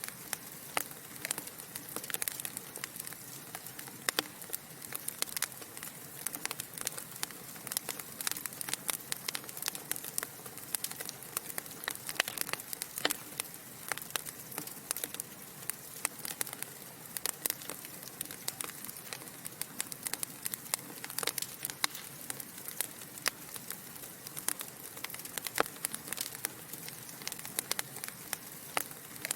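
Wood fire burning in a fireplace: many small, irregular crackles and pops over a steady soft hiss.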